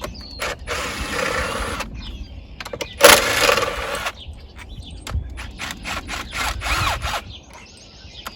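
Electric impact wrench running bolts on an outboard's cylinder head in two bursts of about a second each, the second louder, followed by a quick string of short clicks.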